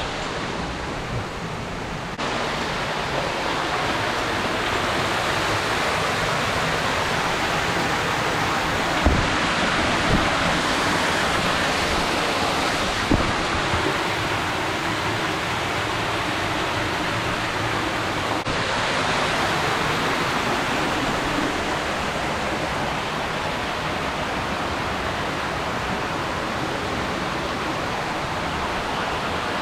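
Steady rushing of water falling from a tall, thin waterfall of about 70 m, with a few brief low bumps partway through.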